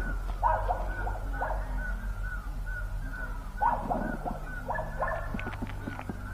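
A bird calling over and over in short, evenly spaced chirps, about three a second, with a few louder, lower calls among them, over a steady low hum.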